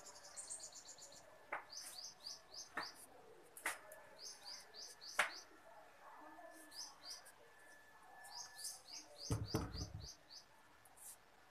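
Small birds chirping in quick runs of short, high notes, several runs in a row. A few sharp clicks are scattered through it, and there is a short low thump near the end.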